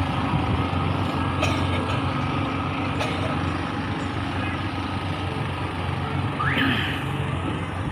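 A small motorized tourist train's engine runs with a steady low hum, and background voices are heard. About six and a half seconds in there is a short rising whine.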